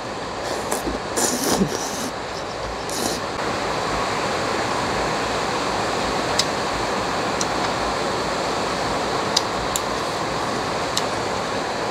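Heavy rain pouring down steadily. In the first few seconds there are a few short slurps of noodles and light clicks of chopsticks on top of it.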